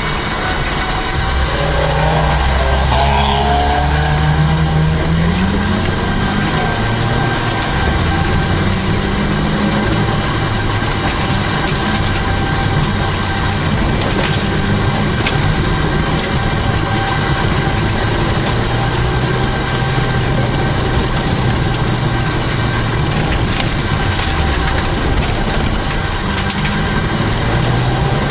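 Toyota Celica GT4's turbocharged four-cylinder engine running, heard from inside the cabin. Its pitch steps and glides up and down over steady road and cabin noise.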